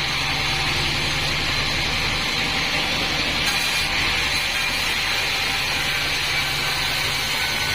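Log band sawmill running steadily with a constant whine, its blade cutting through mahogany.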